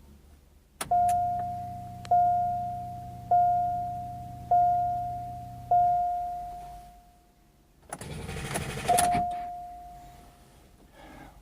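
2005 Chevy Cobalt's warning chime dinging five times about a second apart over a low steady hum as the ignition is switched on. Then the starter cranks for about a second and a half, with one more chime, and the 2.2-litre engine does not catch.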